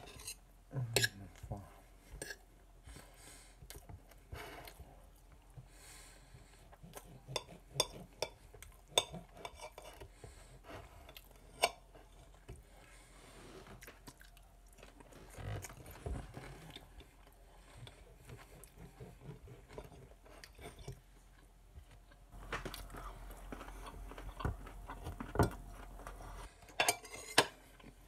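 Chewing and biting on a mouthful of asparagus and baked potato, with scattered sharp clicks and scrapes of a fork and knife on a plate.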